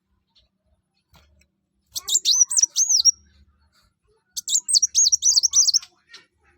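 Kolibri wulung (sunbird) singing: two bursts of high, rapid twittering song, the first about two seconds in and the second about four and a half seconds in, each lasting over a second.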